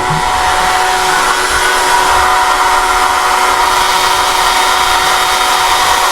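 Power sanding tool running steadily at a constant pitch under load, grinding out a cylinder head's exhaust port during port matching. The abrasive is clogging up on the metal.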